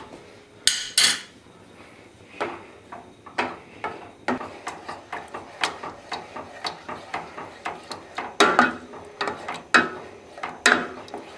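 A utensil stirring sauce in a saucepan, clicking and knocking irregularly against the pan's sides and bottom, about one to two taps a second, with a few louder knocks about a second in and near the end.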